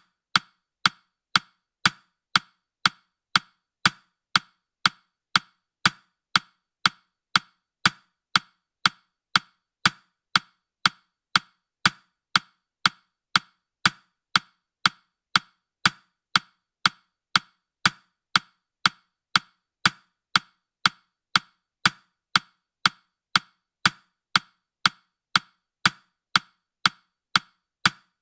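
Countdown timer's ticking sound effect: short, sharp, wood-block-like clicks, evenly spaced at about two a second.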